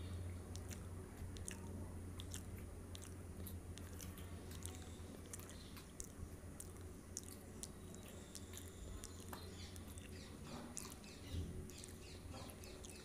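Close-up chewing of a dabeli, a soft bun with a spiced potato filling: wet mouth clicks and smacks throughout, getting busier near the end, over a steady low hum.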